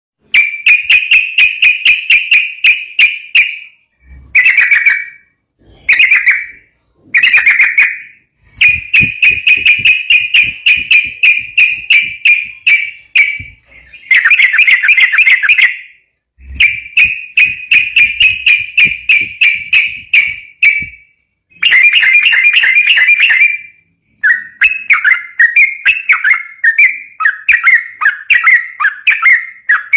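Yellow-vented bulbul (trucukan) singing fast 'ropel' song: runs of rapid, rattling whistled notes, several seconds long, broken by short pauses. Near the end the notes turn into a more varied, up-and-down warble.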